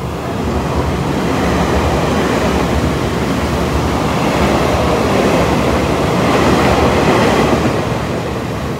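A train running past the platform: a loud, rushing rumble with a fast rattle of wheels on rail, which swells in the first second, holds steady and fades out at the very end.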